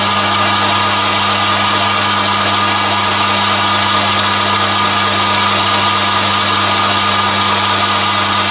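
Chinese mini lathe running steadily on its DC speed controller with the power feed engaged: an even hum with a steady higher whine over it. The power feed makes the machine really noisy.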